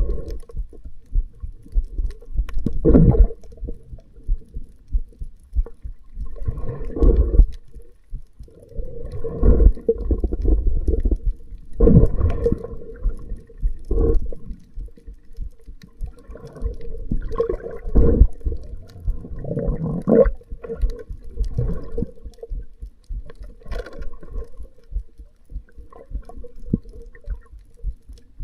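Muffled water sounds picked up by an action camera held underwater, with irregular sloshing surges every one to four seconds over a faint steady hum.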